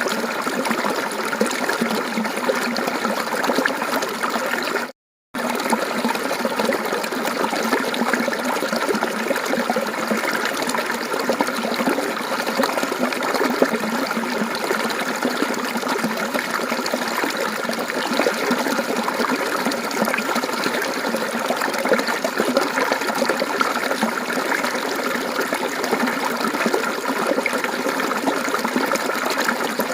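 Mountain stream water babbling steadily over rocks. It cuts out for a split second about five seconds in.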